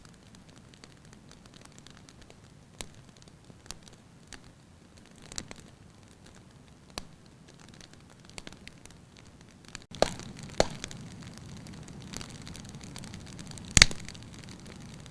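Wood fire crackling in a fireplace, with scattered sharp pops over a faint hiss. About ten seconds in it turns abruptly louder, with more frequent pops and a steadier rushing hiss. One loud crack comes near the end.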